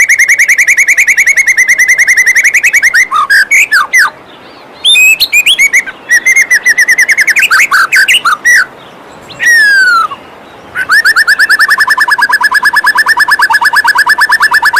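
White-rumped shama (murai batu) singing loudly. It opens with a long, fast trill of rapidly repeated notes, breaks into varied whistled phrases and falling slides with short pauses, then returns to a long, rapid trill near the end. The faint, steady rush of a waterfall runs underneath.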